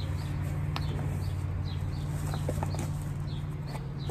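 Birds chirping in short, repeated high calls over a steady low rumble, with a few crackles of paper or plastic wrapping being handled.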